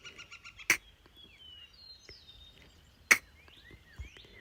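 Two short sharp clicks about two and a half seconds apart, the second louder, over faint bird chirps in the background. A rapid pulsing trill fades out within the first second.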